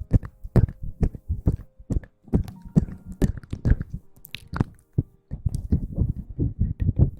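Close-miked ASMR hair-washing sounds: rubbing and scrubbing strokes on the microphone, each a short thud with some rustle. The strokes are irregular at first, then from about five seconds in they come in a quick even run of about five a second.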